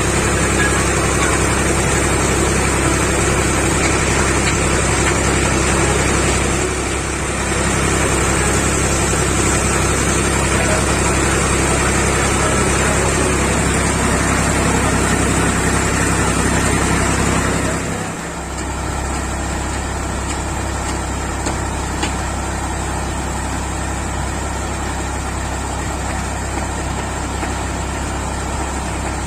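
Tractor engine running steadily under load while threshing paddy, with a brief dip about seven seconds in and a slight drop in level after about eighteen seconds.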